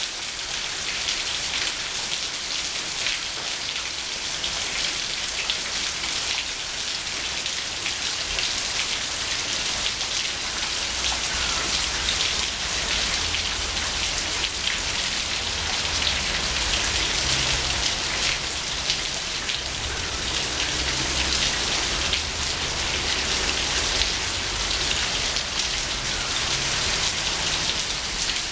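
Heavy rain falling steadily, a dense patter of drops hitting a tiled roof and water dripping off the gutter edge.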